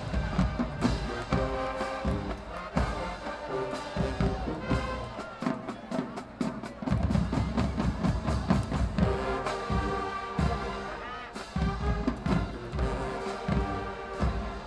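Marching band playing: brass holding and moving through sustained chords over a steady pattern of drum and bass drum hits.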